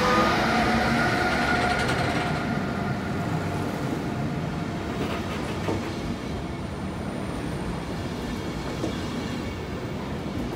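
Intercity train hauled by a DB Class 101 electric locomotive moving past along the platform. The locomotive's electric drive whine, several steady tones, fades out within the first two seconds. It leaves the steady rumble and wheel clatter of the passenger coaches rolling by, slowly getting quieter.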